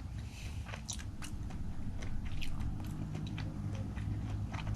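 Close-up chewing of raw fish sashimi: soft wet mouth clicks and smacks, scattered irregularly, over a steady low room hum.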